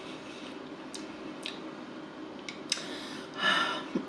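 Close-miked chewing of food, with a few soft sharp mouth clicks and a brief louder rustle about three and a half seconds in.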